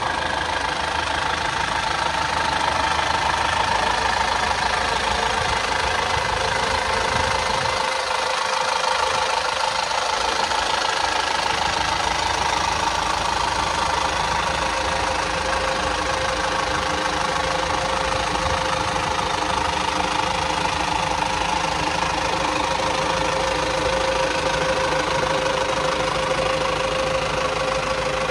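A 1997 Toyota Dyna's 4.1-litre 15B-FT four-cylinder turbo diesel idling steadily.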